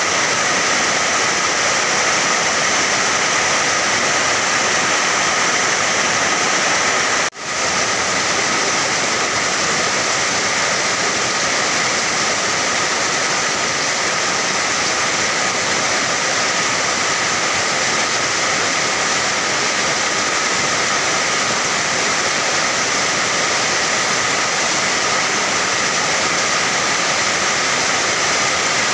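Steady, dense rainfall: a constant even hiss of heavy rain. About seven seconds in it drops out for a split second and comes straight back.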